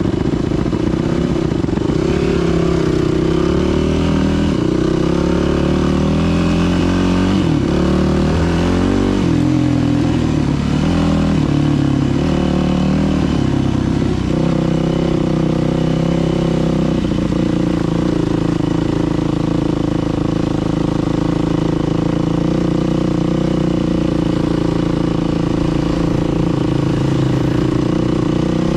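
Dirt bike engine running under way, its revs rising and falling repeatedly, then holding a steadier pitch from a little past halfway.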